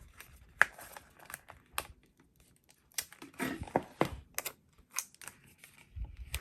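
Paper sticker sheets being handled: scattered light clicks and taps, with a short stretch of crinkling about three seconds in.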